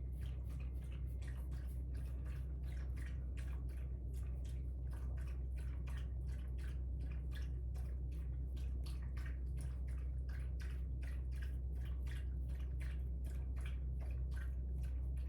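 A brush dabbing and stroking dark colouring onto a bleached deer antler, making soft, irregular wet ticks several times a second over a steady low hum.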